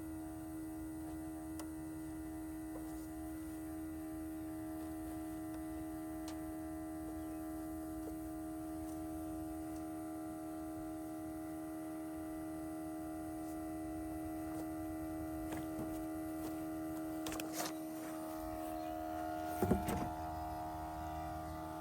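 Smoke leak detector machine running with a steady electric hum while pumping smoke into the engine's intake to find a vacuum leak. A few brief knocks near the end.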